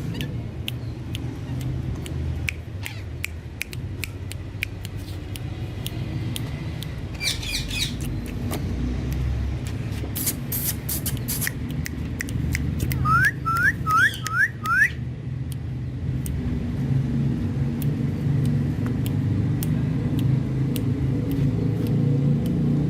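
A pet parrot calling: a short burst of rapid calls about a third of the way in, then five quick rising whistles just past the middle. A steady low rumble and scattered clicks run underneath.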